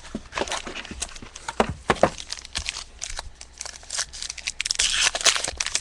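Plastic wrapping being torn open and crinkled by hand as a box of trading cards is unsealed, an irregular run of crackles that grows denser and louder near the end.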